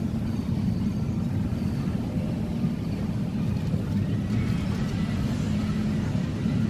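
Steady low engine rumble, like a motor vehicle running nearby.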